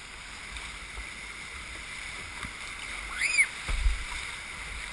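Steady rush of river water around a paddled kayak, with light splashing. About three seconds in there is a short high squeak that rises and then falls, followed by a couple of low thumps.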